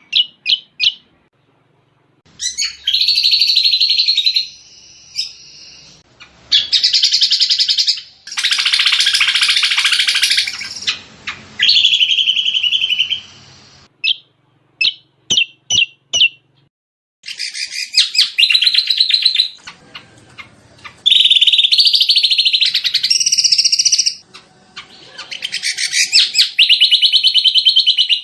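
Cucak combok songbird singing: rapid chattering trill phrases lasting a second to a few seconds each, high-pitched and varying in pitch, alternating with short separate chirps and brief pauses.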